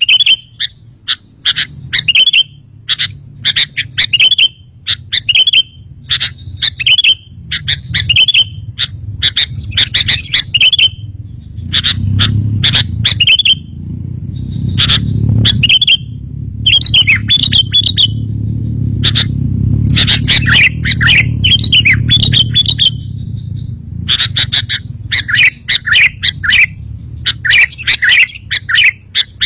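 Sooty-headed bulbul calling: short, bubbly chirping phrases repeated about once a second, growing denser and overlapping in the second half, over a low rumble that swells in the middle.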